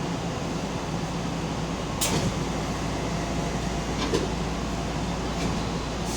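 Keihan Railway local train running between stations, heard from inside the car: a steady rumble and hum, with sharp clicks about two and four seconds in.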